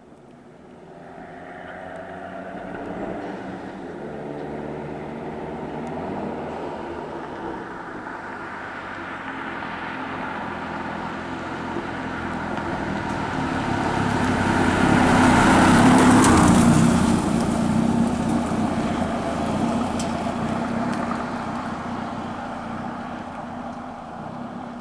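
Ford Sierra Cosworth rally car's turbocharged four-cylinder engine running as the car drives toward and past the microphone: the engine note builds, is loudest about two-thirds of the way through as the car goes by, then fades as it pulls away.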